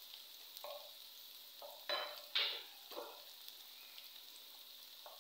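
Onions and potatoes sizzling faintly in a non-stick wok, with a handful of short scrapes and knocks of a spatula against the pan, most of them between about one and three seconds in.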